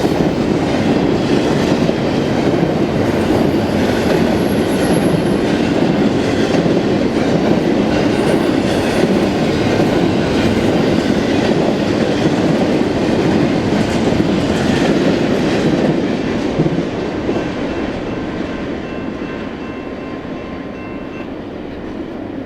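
BNSF freight train cars rolling past with a steady rumble of wheels on rail and clickety-clack at the rail joints. About 16 seconds in the sound starts to fade gradually as the train draws away.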